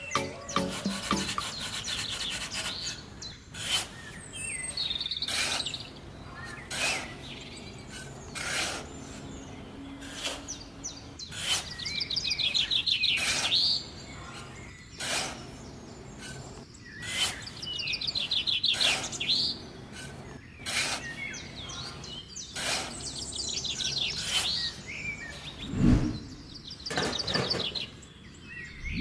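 Birds singing in fast, high trilling chirps, with short sharp sounds recurring every second or two.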